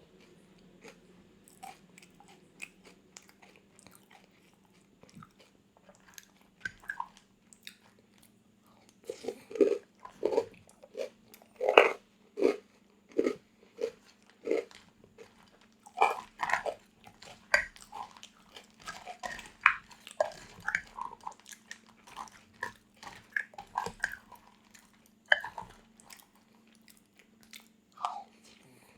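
Close-miked eating: crunchy food being bitten and chewed, sparse and quiet at first, then many sharp crunches from about nine seconds in. A faint steady hum runs underneath.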